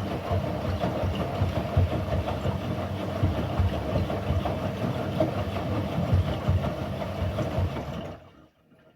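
Indesit MTSWA 61053 front-loading washing machine running on its quick 15-minute programme: a steady motor and drum rumble with irregular low thumps, which dies away about eight seconds in.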